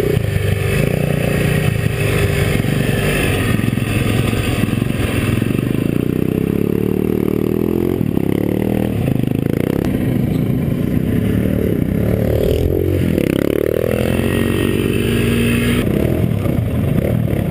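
GIO X31 250cc four-stroke single-cylinder dirt bike engine running under load, its revs rising and falling as the throttle is worked, with a sharp drop and climb in pitch a bit past the middle.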